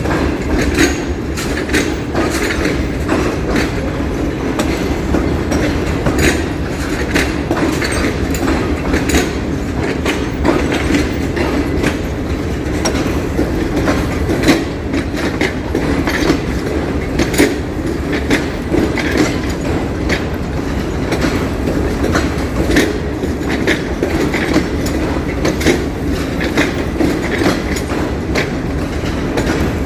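Train running on the track, its wheels clacking over rail joints in an irregular stream of clicks over a steady rumble.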